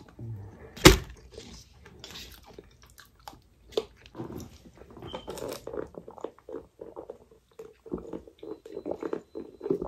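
Close-up eating sounds of fried chicken: a sharp crunch about a second in as the crust is bitten, then steady chewing.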